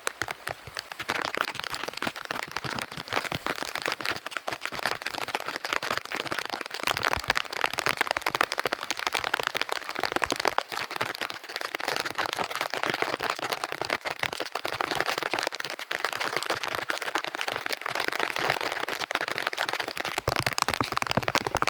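Heavy rain falling, a dense steady patter of countless drops hitting the surfaces around.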